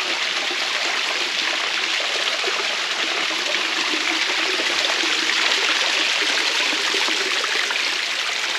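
Water running and splashing down a small rock waterfall into a pool, a steady even rush.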